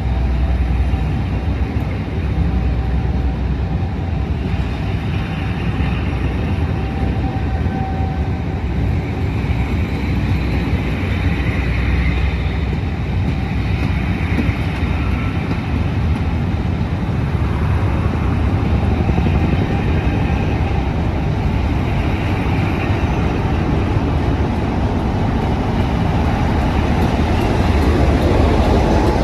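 Class 57 and Class 47 diesel locomotives working hard under power as they pull a charter passenger train away from the platform. A loud, steady engine noise builds slightly toward the end.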